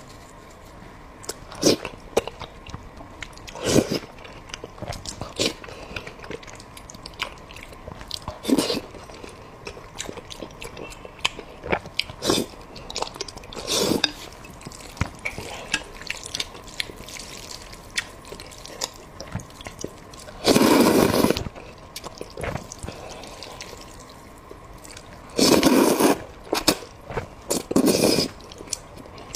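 Close-miked eating sounds of a person chewing braised pork and rice: frequent wet mouth clicks and smacks, with three louder bursts of about a second each in the second half.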